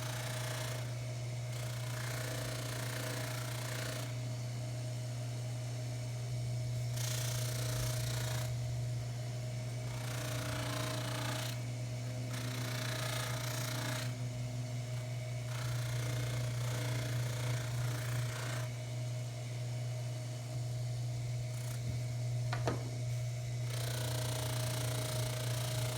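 Baldor 353T dental lathe running with a steady hum, and a buffing wheel hissing in stretches of a second or two as a tobacco pipe stem is pressed to it and lifted off. This is polishing with tripoli compound. There is a single sharp click late on.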